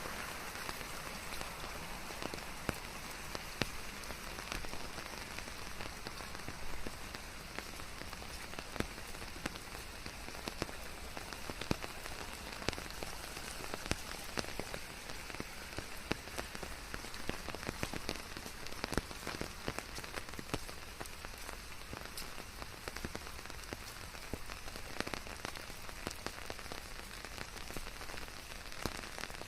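Steady rain falling on a surface, a continuous hiss dotted with many sharp, irregular taps of individual drops.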